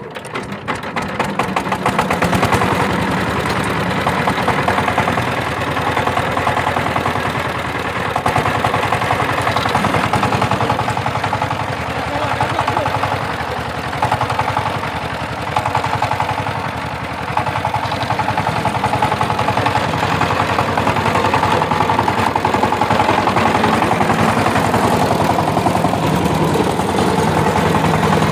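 Power tiller's diesel engine running with a rapid, even chugging. It picks up speed and gets louder over the first two seconds after starting, then holds steady, easing off briefly a little past halfway.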